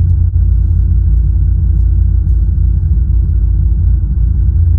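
Steady low rumble, even and unchanging, like a vehicle's engine or cabin noise.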